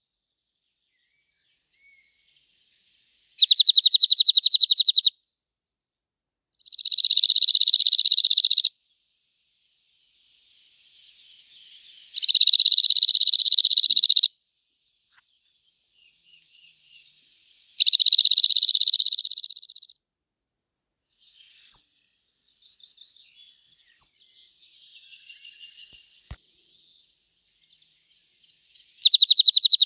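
A songbird repeating a loud, dry trill of rapid identical notes, each about two seconds long, four times and starting a fifth near the end. Fainter bird calls and two short, high chirps fall between the trills.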